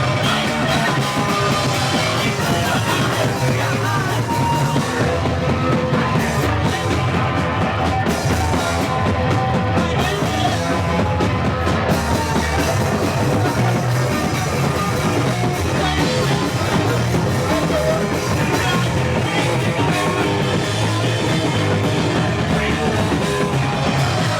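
Punk rock band playing live with drums and guitars, loud and unbroken, recorded on a VHS camcorder.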